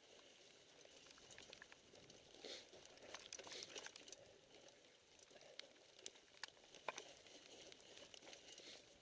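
Faint ticks, rattles and patter from a mountain bike riding down a wet, rough trail in the rain, with a few sharper clicks clustered about three and a half and seven seconds in.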